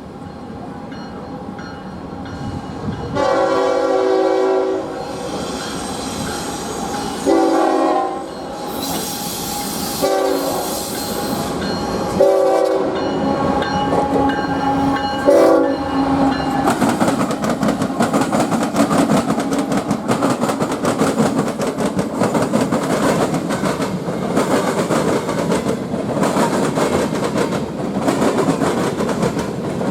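Train horn sounding several blasts as a train approaches, the first the longest. The train then passes close by, its wheels rumbling and clicking over the rail joints.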